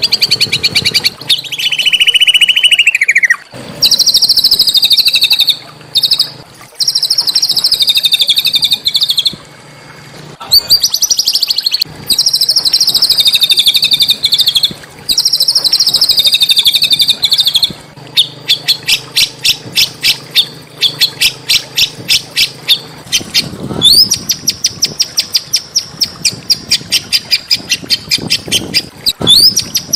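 Small songbird singing in high, rapid trilled phrases of one to two seconds each, then a run of quick separate chips at about five a second, and near the end rising notes that run into a long high trill.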